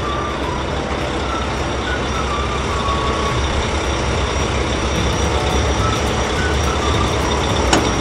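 Heavy construction-vehicle diesel engine running steadily, low and even with a hiss above it, and a brief sharp click near the end.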